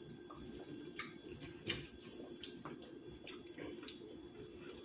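Faint, wet eating sounds: chewing and lip smacks of someone eating corn on the cob from a seafood boil, with scattered small clicks.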